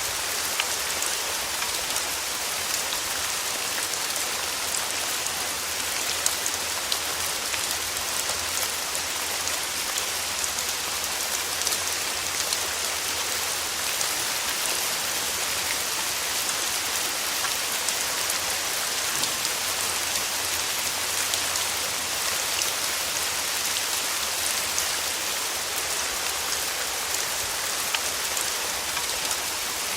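Steady rain falling and pattering on a surface, a constant hiss with scattered individual drop clicks.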